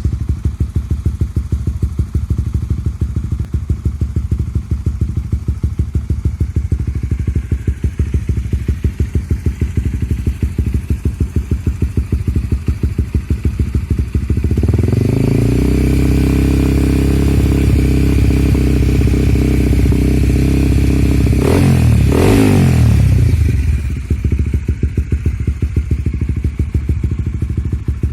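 Motorcycle with an Akrapovic aftermarket exhaust idling with an even pulse. About halfway through the revs rise and are held higher for several seconds. Near the end of the hold the pitch sweeps quickly up and back down before the engine drops back to idle.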